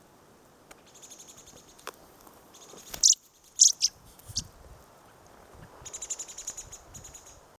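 Adult bird scolding in alarm to drive people away from its fledgling: rapid high chattering rattles, broken by a few loud, sharp calls in the middle.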